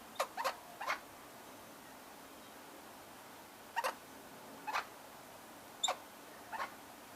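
Australian king parrots giving short, shrill calls: three in quick succession, then four more spaced about a second apart.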